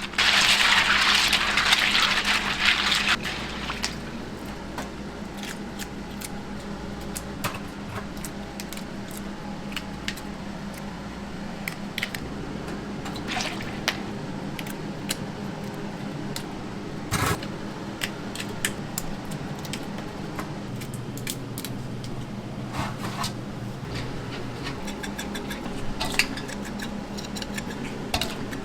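Kitchen work: water rushing loudly for about the first three seconds, then scattered light clicks and knocks over a steady low hum.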